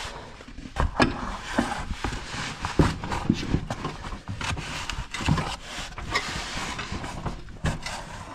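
Irregular metallic knocks and clanks of hand tools working on a riding mower's deck and blades, as the wedged blades are worked loose.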